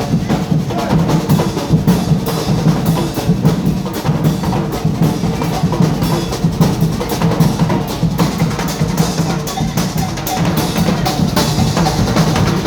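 Carnival percussion band playing a fast, dense beat on drums.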